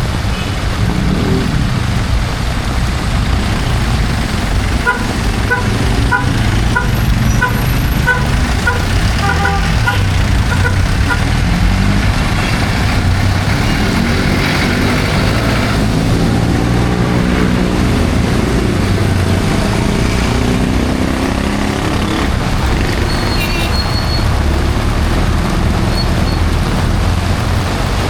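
Heavy rain and city road traffic: a steady hiss of rain and tyres on a wet street with vehicles going by. From about five seconds in, a run of short evenly spaced beeps, about two a second, goes on for roughly six seconds, and later a vehicle engine passes with its pitch rising and falling.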